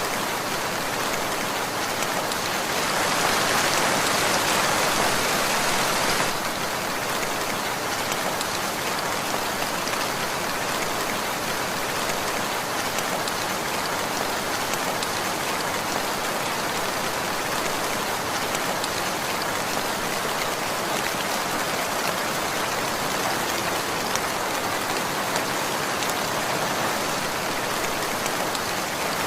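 Steady rainfall pattering on a surface, with a louder stretch about three seconds in that lasts about three seconds before settling back.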